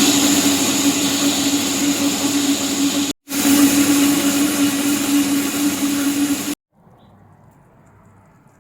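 A household appliance's electric motor running steadily with a rushing air noise and a steady hum, broken by a sudden silent cut just after 3 seconds and stopping abruptly about 6.5 seconds in, after which only faint room tone remains.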